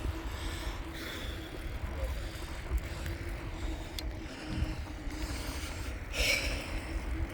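Wind rumbling on the microphone while riding a bicycle, over a steady low hum, with a sharp click about four seconds in and a short hiss about six seconds in.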